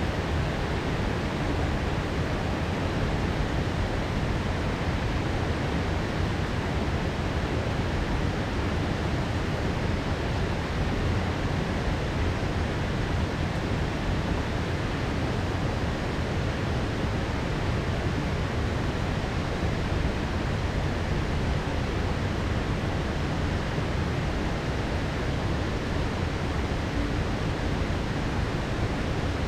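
Heavy rain pouring in a steady, even hiss, with no thunderclap in it.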